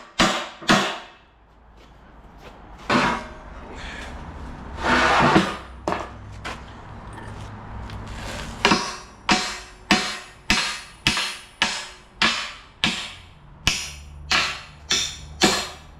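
Hammer blows on metal, about two a second with a short ring after each, stopping for several seconds in the middle, where a steady low hum and one louder scraping burst are heard, then resuming near the end at the same pace.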